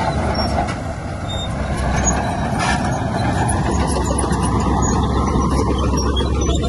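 Heavy diesel earthmoving machinery running steadily under load, a loud continuous engine rumble.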